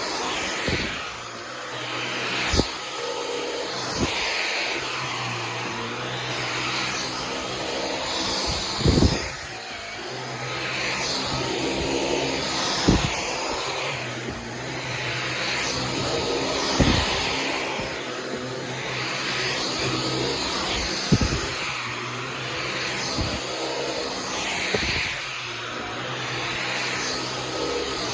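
Dyson V15 Detect cordless stick vacuum running on carpet, its whoosh swelling and fading with back-and-forth passes. A sharp knock comes every few seconds.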